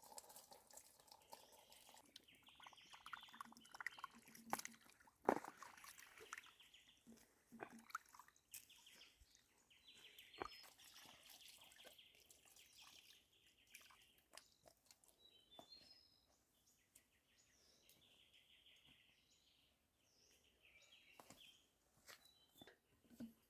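Faint bird chirping, with scattered sharp clicks and knocks; the loudest knock comes about five seconds in, and it grows quieter in the second half.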